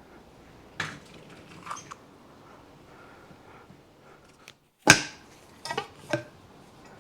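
Small metal fork parts being handled and set down: a handful of light clinks and knocks, the sharpest about five seconds in.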